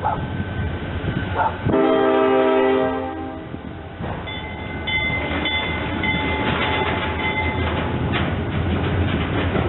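A train horn sounds one chord for about two seconds, over the running noise of a train. After it comes a steady high whine from the train.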